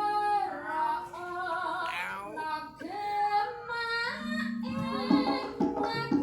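A sinden (Javanese female singer) singing a long, ornamented vocal line with wavering held notes and sliding turns. About four seconds in, lower instrumental notes join beneath the voice.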